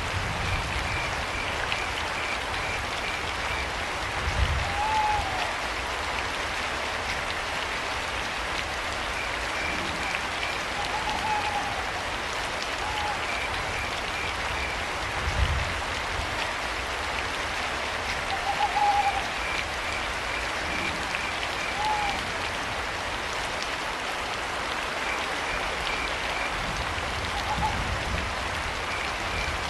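Steady rain falling, with crickets chirping in short trains of quick pulses and an owl giving short hoots every few seconds. Two brief low thuds, about four and fifteen seconds in.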